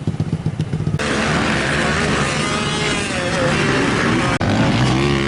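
Dirt bike engines running: one idling with a steady pulse, then after an abrupt change about a second in, louder engines revving with wavering pitch.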